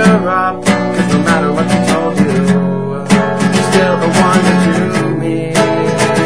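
Acoustic guitar strummed in a steady rhythm, with a sung line trailing over it in the first second or so.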